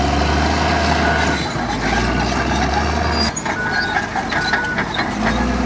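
Heavy diesel construction machinery running steadily, with a deep engine drone, scattered clanks and short high squeaks. The sound drops slightly about three seconds in.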